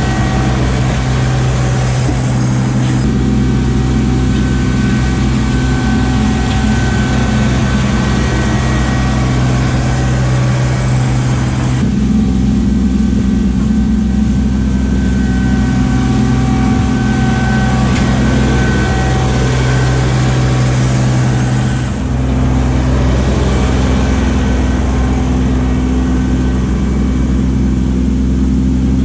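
Kubota LX2610 compact tractor's three-cylinder diesel engine running steadily, its note shifting about three, twelve and twenty-two seconds in.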